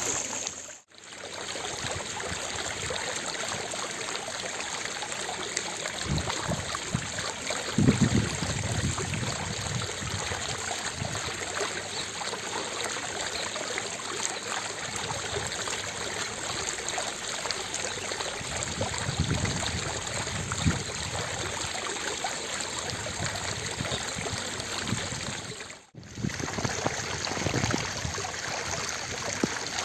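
Fountain water splashing and rushing in a steady, even hiss. The sound drops out for an instant about a second in and again a few seconds before the end.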